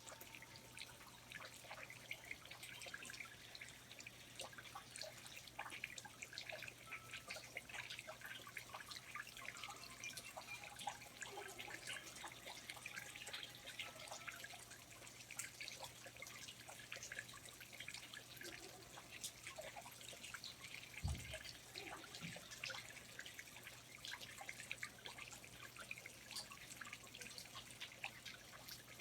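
Water dripping in a rainforest: many small irregular drops tapping quietly and continuously, with a faint steady low hum beneath. About 21 seconds in there is a single soft low thump.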